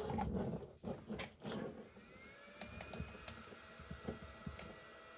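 Clatter and rustle of parts and tools being handled on the bench, then a soldering station's faint steady electronic whine that starts about two seconds in, rising slightly before it settles, with light clicks every half second or so.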